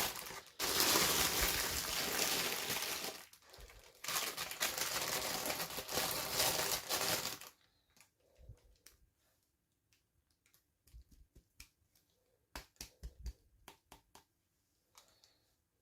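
Toy packaging crinkling and rustling as it is handled and unwrapped, with a brief lull about three seconds in. It stops about halfway through, leaving only small scattered clicks and taps of handling.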